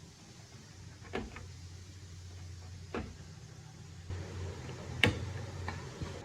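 A few sharp clicks and knocks of hard parts being handled, about two seconds apart, the loudest about five seconds in, over a low steady hum.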